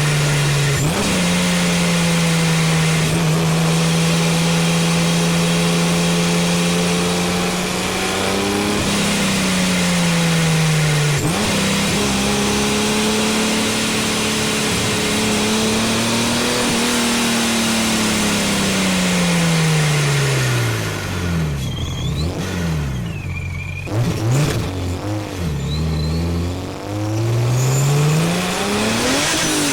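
Supercharged BMW 330Ci's straight-six engine, heard from the engine bay while driving. It holds steady cruising revs with a few small rises and dips, then the revs fall away about two-thirds through and run low and uneven, before climbing again under acceleration near the end.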